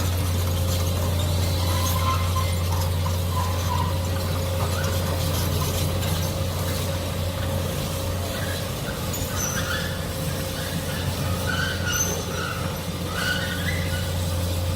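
Heavy excavator running: a steady low engine drone with short squeaks coming and going throughout.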